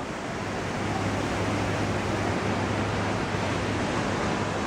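Loud, steady roar of a large waterfall's rushing water, with a low steady hum underneath from about a second in.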